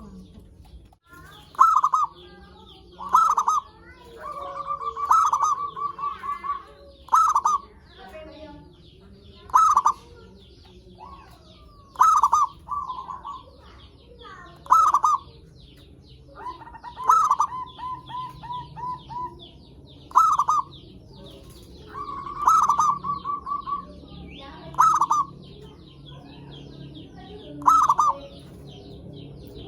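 Zebra dove (perkutut) singing: loud, clipped cooing notes repeated every two to three seconds, several of them running on into a rapid rolling trill lasting a second or two. A faint high chirring continues underneath.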